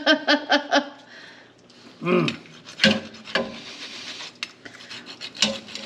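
Irregular scraping and rubbing of a utensil working cooked chicken off the bone in a cast iron Dutch oven. A brief voice is heard at the start.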